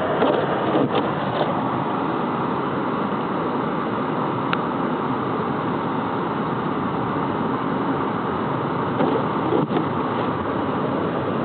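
A car driving steadily: an even rush of road and engine noise, with a few light knocks in the first second or so, a single click about halfway, and a couple more near the end.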